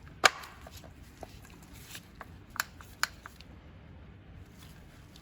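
A handful of sharp clicks and light taps of small hard parts being handled and set down. The loudest click comes about a quarter second in, and a few more follow a couple of seconds later.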